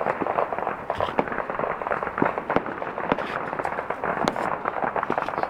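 New Year's Eve fireworks and firecrackers going off densely, a continuous rapid crackle of many small pops with a few louder cracks.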